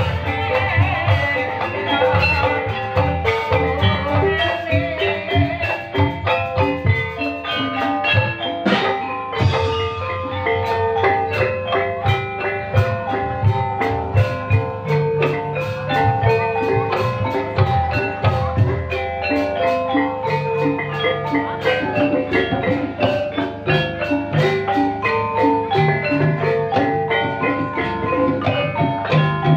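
Ebeg dance accompaniment music: dense, fast tuned mallet-percussion notes played over drums, with a brief hiss about nine seconds in.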